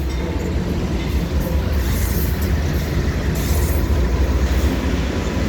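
Freight train's lead diesel locomotives passing close by, a steady heavy rumble with rail and wheel noise.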